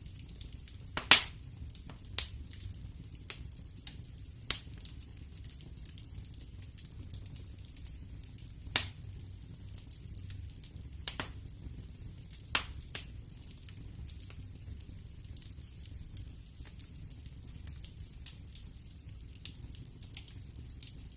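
Wood fire in a fireplace crackling: irregular sharp pops, the loudest about a second in, over a steady low rumble.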